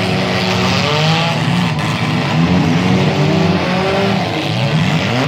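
Several small demolition-derby cars' engines revving at once, their pitches rising and falling over one another as the cars drive and ram around the arena.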